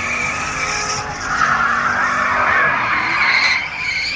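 A car doing donuts, its tires screeching continuously on the pavement over the engine running at high revs. The screech is loudest through the middle.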